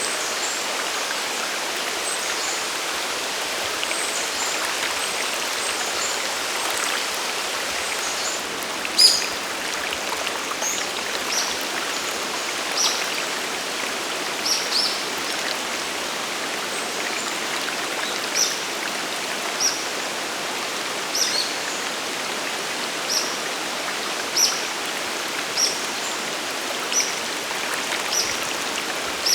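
Sagiri Falls and its stream rushing in a steady, even hiss. From about a third of the way in, a bird gives short high calls over it, repeating every second or so.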